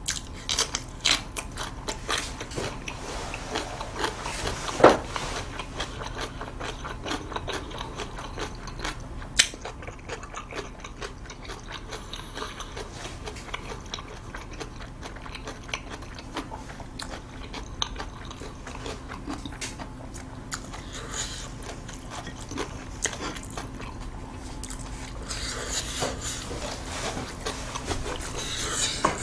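Close-miked chewing of a crunchy slice of yellow pickled radish, with crisp crunching bites that come thickly in the first ten seconds and then thin out. One sharp crunch about five seconds in is the loudest.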